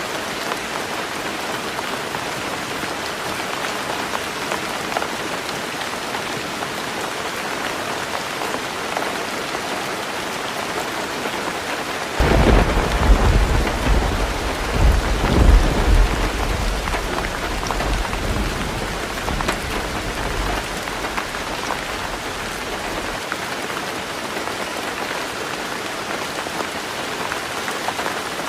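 Heavy rain drumming steadily on a tin roof, with a thunderclap breaking in suddenly about twelve seconds in and rumbling deeply, swelling twice, before fading away about ten seconds later.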